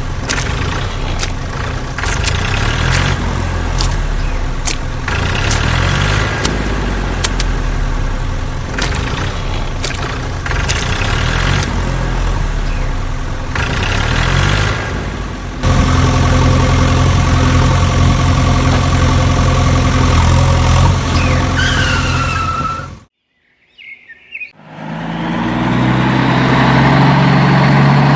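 Motor vehicle engine running steadily, with sharp clicks and short rises in pitch over the first half, then a louder, steadier engine from about two-thirds of the way in. It cuts out abruptly, and after a moment of near silence an engine starts up and builds again.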